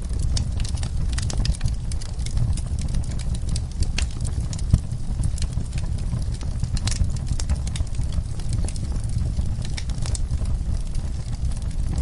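Wood fire in a fireplace crackling, with irregular snaps and pops, one louder pop near the middle, over a steady low rumble.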